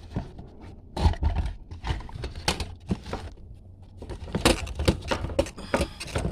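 Irregular knocks, clicks and scrapes as a car's fuel pump module is tugged and worked by hand in its tank opening while still held by a clip. There is a sharp knock about a second in and a quick run of clicks about four and a half to five seconds in.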